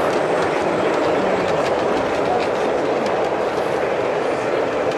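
O gauge model train running along the track, its wheels clicking over the rail joints, over a steady background noise.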